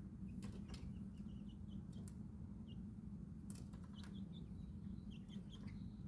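Baby chicks peeping in short, high, scattered chirps, with a few sharp taps among them and a steady low hum underneath.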